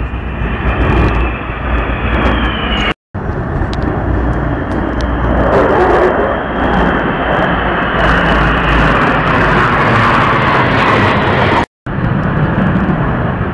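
Military aircraft of the Victory Day parade flypast passing overhead: a steady, loud rush of engine noise. It cuts out to silence for an instant twice.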